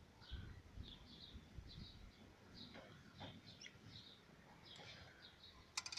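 Faint background birds chirping, short high calls a couple of times a second, over near silence. There are a few faint low knocks in the middle and a sharp click near the end.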